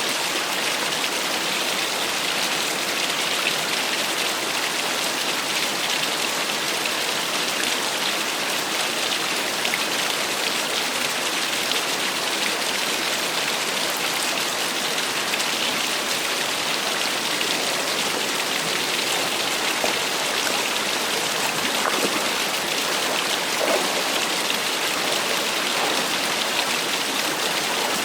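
Small waterfall splashing and rushing steadily, an even hiss of falling water.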